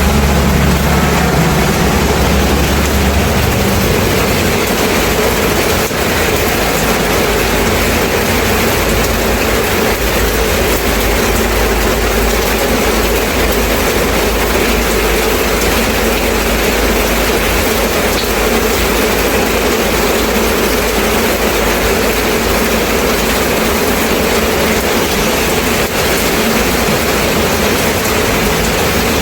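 Steady rain falling, an even hiss, with a deep low rumble under it that drops away a few seconds in.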